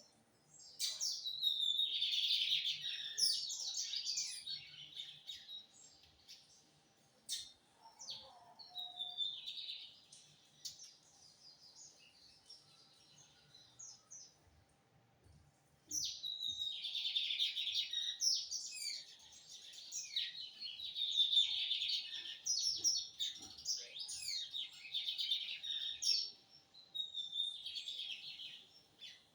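Lined seedeater (bigodinho) singing a rapid, high twittering song in three bouts. The longest bout starts about halfway through and lasts over ten seconds. A faint steady hum runs underneath.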